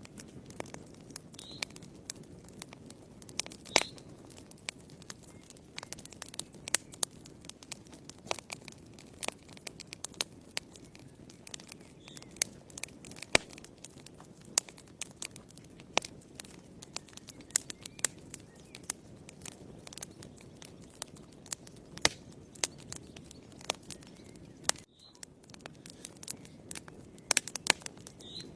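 Wood fire burning in a fireplace: irregular sharp crackles and pops over a low, steady rumble of flames, which dips briefly about three-quarters of the way through.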